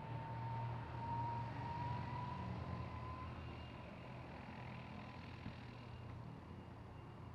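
Light piston-engine propeller aircraft running at a distance, its engine note rising slightly over the first few seconds and then holding steady as the sound slowly fades.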